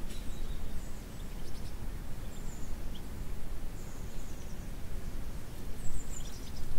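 Outdoor ambience: a steady low rumble of background noise with several short, high bird chirps scattered through it.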